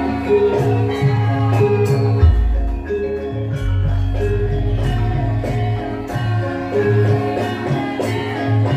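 Javanese gamelan music accompanying a lengger dance: mallet-struck metallophones repeat a short melodic figure over a steady drum and low bass pulse.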